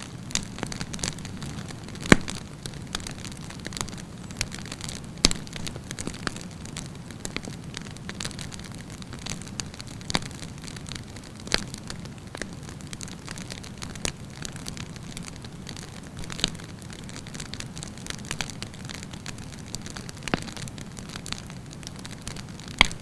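Wood campfire burning: a steady low roar of flames with frequent sharp crackles and pops from the burning wood, the loudest pops about two seconds in, about five seconds in and near the end.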